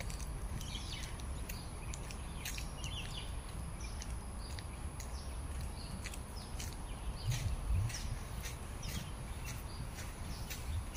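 Birds chirping and calling in many short, high notes over a steady low rumble of the phone being carried while walking, with a couple of heavier low thumps about seven and a half seconds in.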